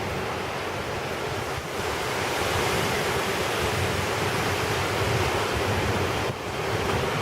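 Typhoon wind and rain: a steady rush of noise with wind buffeting the microphone, briefly dipping about one and a half seconds in and again near the end.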